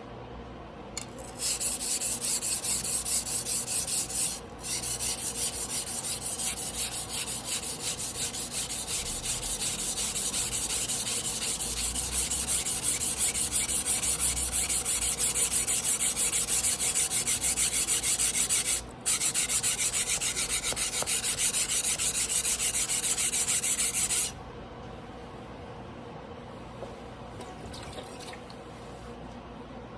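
Tojiro damascus carbon-steel yanagiba blade being hand-sharpened on a whetstone: fast, continuous scraping strokes of steel on stone. It starts about a second in, breaks off twice very briefly, and stops a few seconds before the end.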